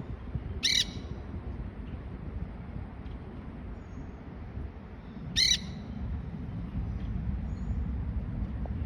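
Quaker parrots (monk parakeets) giving two short, harsh squawks, one under a second in and another about five seconds in, over a steady low rumble.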